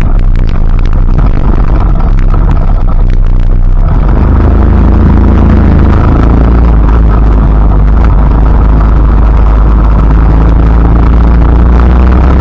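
Loud, deep, steady rumble; about four seconds in it settles into a steadier low drone.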